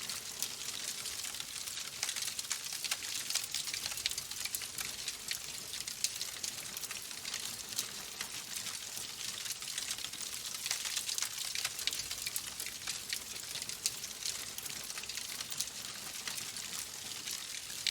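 Log fire crackling in a fireplace: dense small snaps and pops over a steady hiss.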